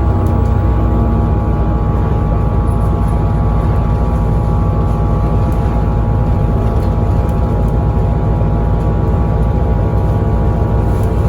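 Bus in motion heard from inside the saloon: a steady engine drone and road rumble, with several constant whining tones from the drivetrain and no change in speed.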